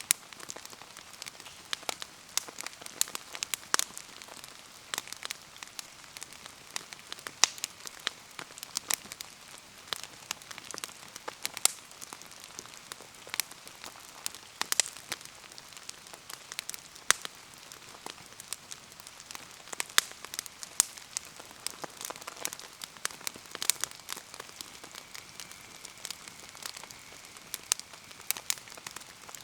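Bonfire in steady rain: an even hiss of falling rain with frequent sharp, irregular crackles and pops.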